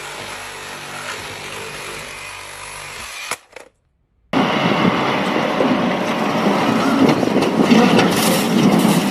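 A steady vehicle engine hum that stops about three seconds in; after a second of silence, a louder, rough vehicle noise begins.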